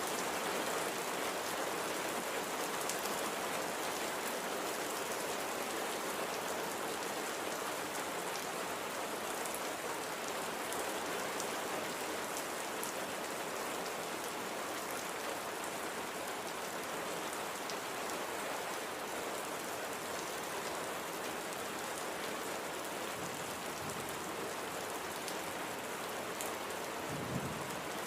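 Light, steady rain with scattered individual drops ticking. A brief low thud sounds near the end.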